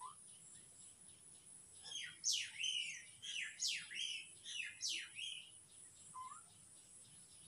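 A bird calling, a quick run of about seven sharp notes that each fall steeply in pitch, from about two seconds in to about five and a half seconds in. A faint, evenly repeating high chirping runs underneath.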